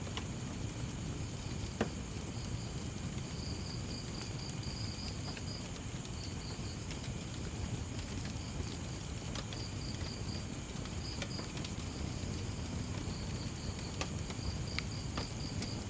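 Wood fire crackling with scattered sharp pops, one louder about two seconds in, over a low steady rumble. Crickets chirp in short trains of pulses against a steady high insect drone.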